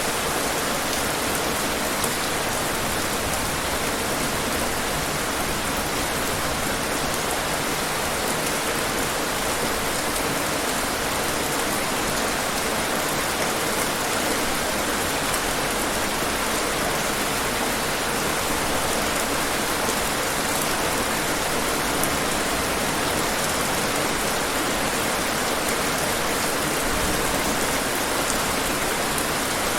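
Steady rain falling and pattering on hard surfaces, an even hiss with faint drop ticks and no change in strength.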